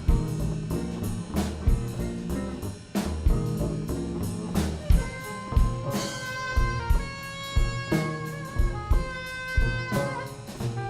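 Instrumental jazz: a drum kit and bass groove, with a horn playing long held notes from about halfway through.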